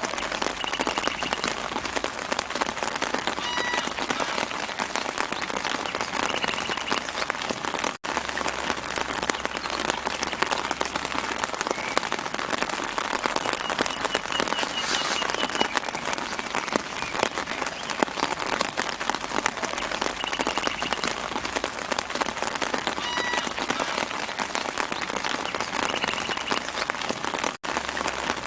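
Steady light rain pattering on leaves, with short high bird chirps now and then in the background. The rain cuts out for an instant twice, about a third of the way in and near the end.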